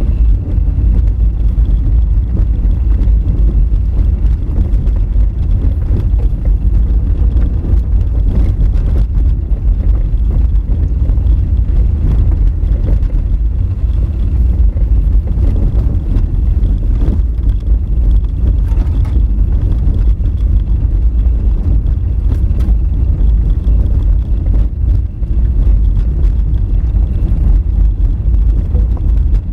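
Honda Fit driving on a rough dirt forest road: a steady low rumble of engine, tyres and suspension, with scattered light knocks over the loose, rocky surface.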